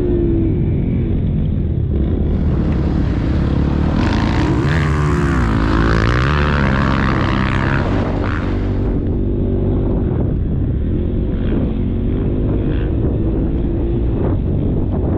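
KTM motocross bike engine under load, its pitch climbing and dropping as the throttle is worked, with wind rush on the helmet-mounted microphone.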